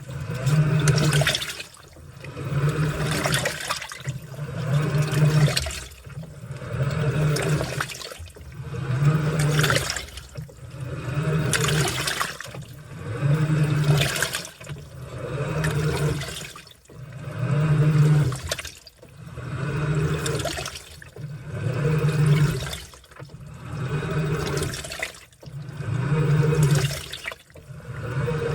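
Washing machine in its wash cycle: the motor turns the load one way, then the other, in pulses about every two seconds, each with a low motor hum and water sloshing through the laundry.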